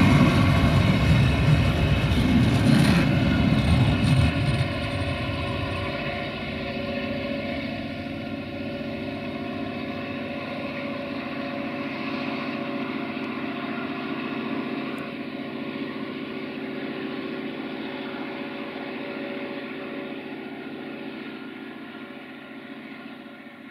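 Diesel-hauled passenger train passing close by: a loud low rumble of coach wheels on the rails for the first four seconds or so, then a steady droning that slowly fades as the train draws away.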